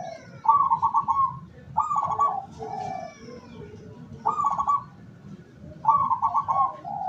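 Zebra dove cooing: four loud, rapid stuttering coo phrases, each under a second long, coming every second or two.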